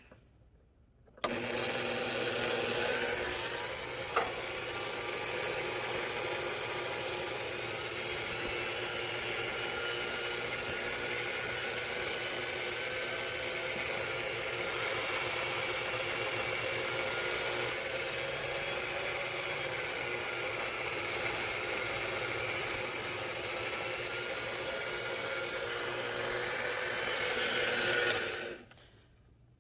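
Small electric motor of a Willard's Tipper cue-tip trimmer running steadily, with 320-grit sandpaper rubbing on the spinning cue tip. It starts about a second in and stops near the end.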